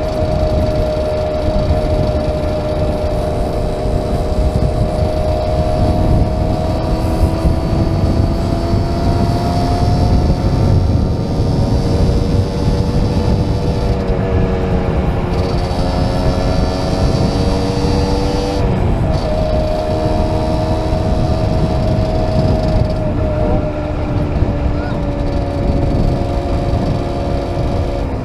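A small classic motorcycle engine running under way, its note rising and falling gently with speed, with a short break and jump in pitch about two-thirds of the way through. Heavy wind rumble on the helmet microphone sits underneath.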